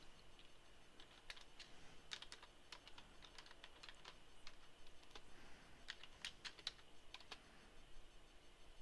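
Faint computer keyboard typing: irregular runs of keystrokes, in two bursts with a pause between them.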